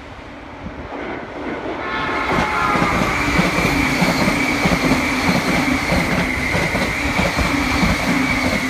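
Electric passenger train passing at speed: the sound builds over the first couple of seconds into a loud, steady rush with wheels clattering over the rail joints and a steady high whine.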